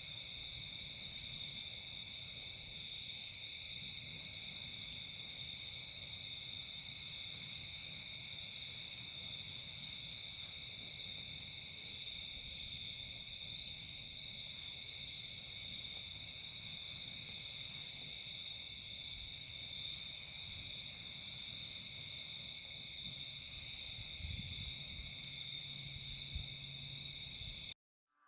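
A steady, high-pitched chorus of crickets and other night insects trilling without a break, over a faint low background rumble. It cuts off suddenly near the end.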